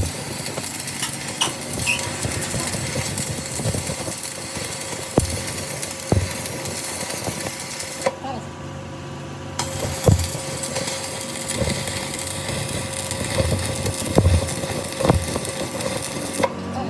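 Workshop noise: a steady machine hum with scattered sharp knocks and clicks.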